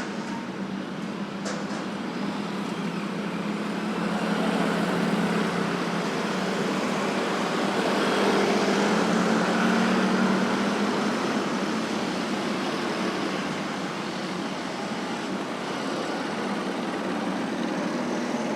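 Steady road traffic of motorcycles and cars, with engines running and tyres on the road. The traffic grows louder around the middle, as vehicles pass close, then eases off.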